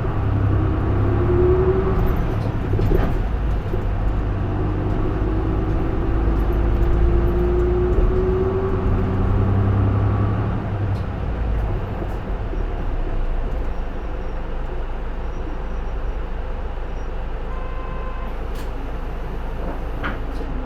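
J-Bus PKG-LV234L2 (Isuzu Erga) city bus diesel engine pulling under load, with a whine rising in pitch. About halfway through the engine note eases off and the bus runs on more steadily.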